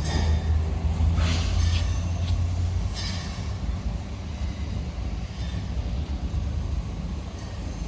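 Walk-behind electric pallet truck running: a low rumble, strongest for the first few seconds and then easing off, with short hissing noises about a second and about three seconds in.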